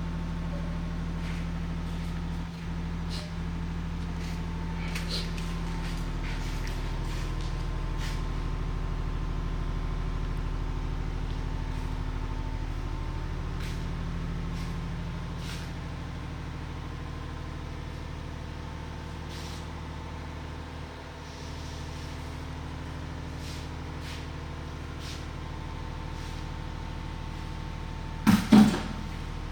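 An engine running steadily, its low hum shifting slightly about six seconds in, with scattered light clicks and two short loud sounds just before the end.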